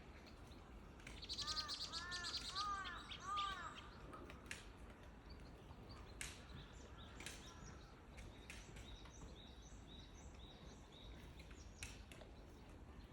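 Wild birds calling: about a second in, a rapid high trill comes with four short arched calls over about two seconds, then only scattered faint chirps and clicks for the rest.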